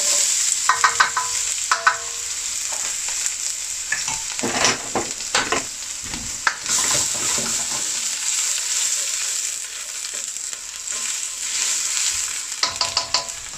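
Chopped onion frying in hot oil in a non-stick pan: a steady sizzle, with the onion stirred now and then in short scraping strokes.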